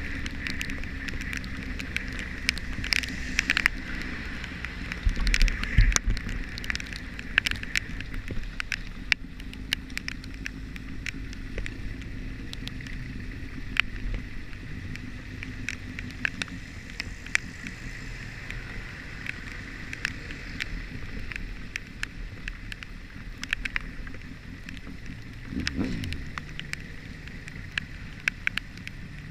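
Motorcycle engine running steadily on the move, with road and wind noise and many scattered sharp ticks. About 26 seconds in, an engine note briefly rises and falls.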